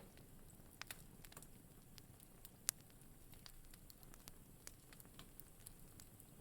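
Wood fire in a fireplace crackling faintly, with scattered sharp pops; the loudest pop comes a little under three seconds in.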